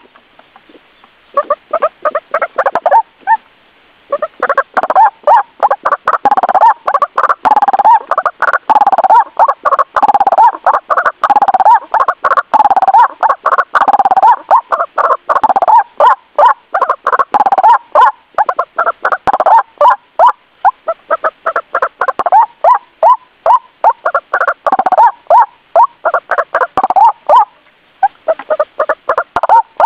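White-breasted waterhen (ruak-ruak) lure-call recording: a loud, fast run of repeated croaking calls, two or three a second, with two short breaks in the first few seconds.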